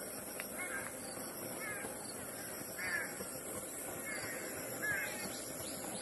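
Harsh, cawing bird calls, short and repeated about once a second, over a steady background hiss.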